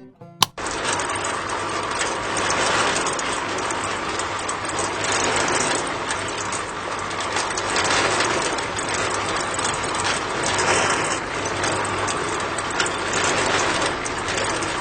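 A small engine running steadily with a dense mechanical clatter over a low hum. It starts abruptly about half a second in.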